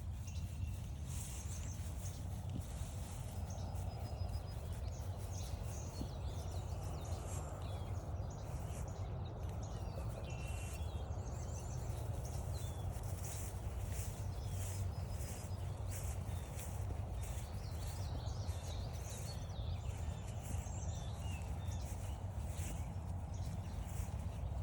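Footsteps walking steadily along a trail, with several birds singing and chirping, over a steady low rumble.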